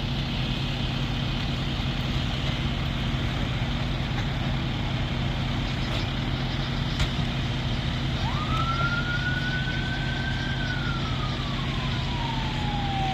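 Emergency vehicle siren starting up about two-thirds of the way in: a tone that jumps up, climbs slowly and then slides down in one long wail, beginning a second wail near the end. Under it a heavy vehicle's engine runs steadily.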